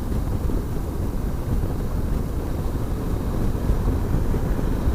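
Wind rushing over the microphone of a moving motorcycle, a steady low rumble with the engine and road noise blended underneath.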